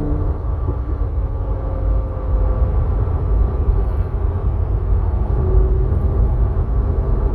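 A car being driven, giving a steady low rumble of engine and road noise.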